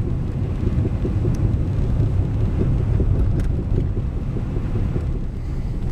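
Pickup truck driving slowly on a snowy, bumpy road, heard from inside the cab: a steady low rumble of engine and tyres with many small irregular knocks and rattles over it.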